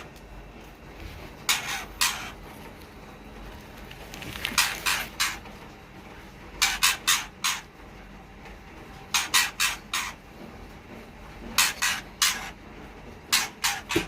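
Murai nestlings begging with short, raspy hissing calls in clusters of two to five, repeating every two to three seconds.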